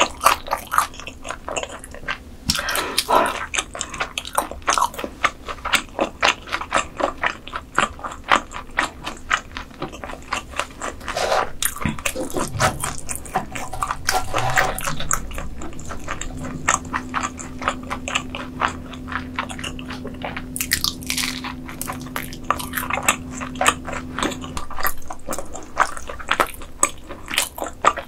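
Close-miked eating of crispy grilled beef intestines: repeated crunchy bites and wet chewing, with a steady low tone held for several seconds after the middle.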